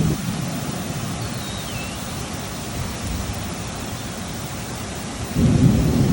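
Steady rain falling during a thunderstorm, with low rumbles of thunder at the start and again near the end.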